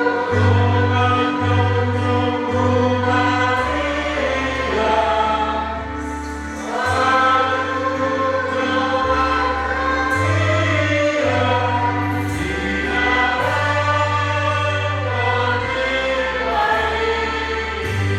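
A group of voices singing a hymn in harmony, over sustained low bass notes that change every second or two.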